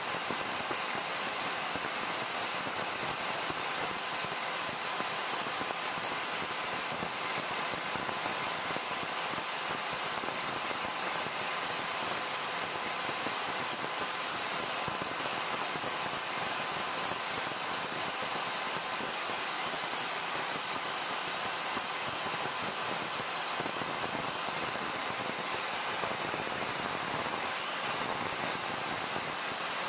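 Angle grinder with a flap sanding disc running steadily, sanding rust off the water pump's motor shaft: an even, hissing grind with a faint steady whine.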